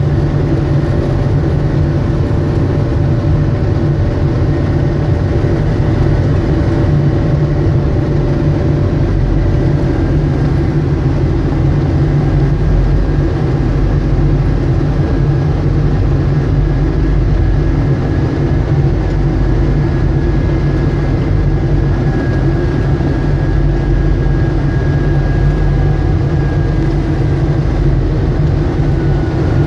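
John Deere 624J wheel loader's diesel engine running steadily under plowing work: a loud, even low drone with a faint high whine over it.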